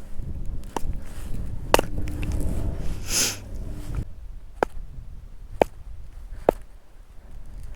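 Wood being chopped: sharp knocks about once a second in the second half, after a stretch of low rumbling with a brief hiss about three seconds in.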